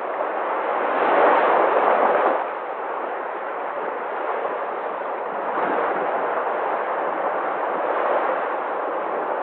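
Sea waves washing in: a steady rush of surf that swells louder about a second in, drops back after about two seconds, then surges more gently twice.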